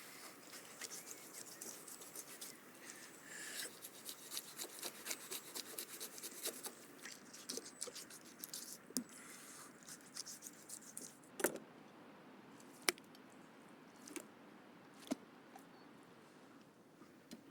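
Knife working over a large fish as it is cleaned: a dense run of small crackling clicks for several seconds, then a few sharp single knocks, each about a second apart.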